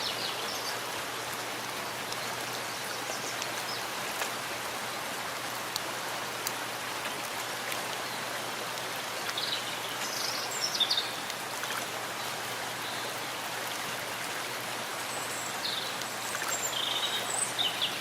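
Steady rain falling in a forest, an even hiss with a trickle of water in it. A few short, high bird chirps come through about ten seconds in and again near the end.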